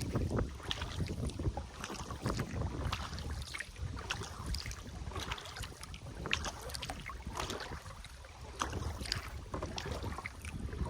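Water splashing and trickling around a kayak in short, irregular bursts, over a low rumble of wind on the microphone.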